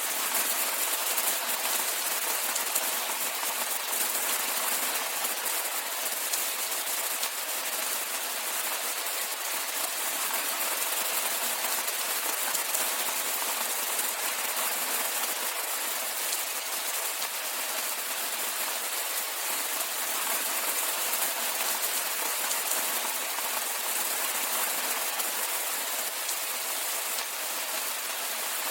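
Steady rainfall: a dense, unbroken patter of drops heard as an even hiss with fine crackle and no low rumble.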